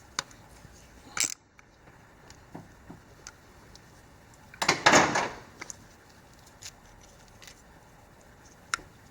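Hand tools and metal parts being handled while an ignition coil is bolted down: a few sharp clinks, a short clatter about a second in, and a louder, longer clatter around five seconds in.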